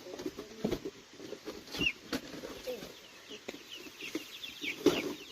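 Chickens clucking in short low calls, with many quick, high, falling chirps over them and a couple of sharp knocks.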